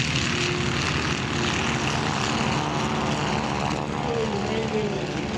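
Radial-engined vintage biplanes running at power, a steady propeller drone. About four seconds in, the pitch falls as one passes by.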